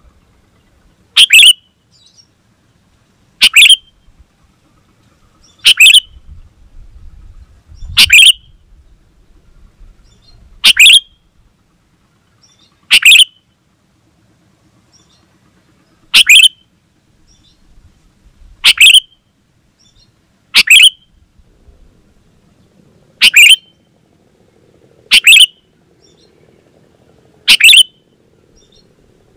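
Sooty-headed bulbul lure call: a short, loud call repeated at an even pace, about once every two to two and a half seconds, a dozen times.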